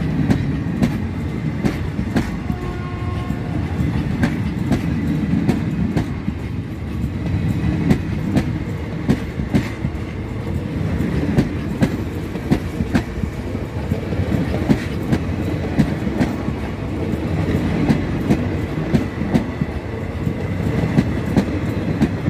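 Indian Railways passenger coaches passing close by: a steady rumble of wheels on the rails, broken by a rapid clickety-clack of wheel sets over the rail joints.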